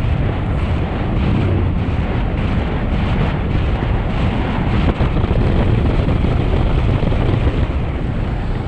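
Heavy wind rushing over the microphone of a road bike descending at speed, a steady low rumble.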